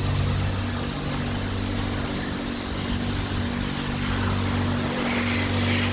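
A steady mechanical hum holding a constant pitch, over an even hiss.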